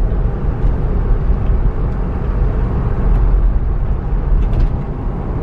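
Steady road and engine noise of a moving car, heard from inside the cabin, with a strong low rumble.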